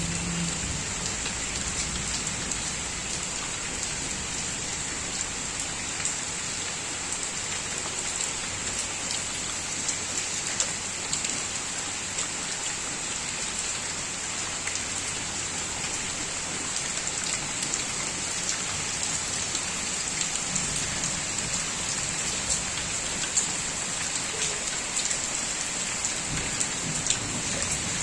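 Steady rain falling, a continuous hiss made of many separate drop impacts, with louder single drops ticking here and there throughout.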